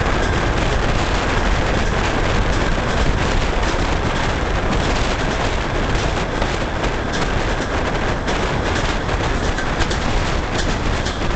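Passenger train running at speed, heard from an open carriage window: a steady, loud rolling and rushing noise. Sharp clicks of the wheels crossing rail joints grow more frequent and distinct from about halfway through.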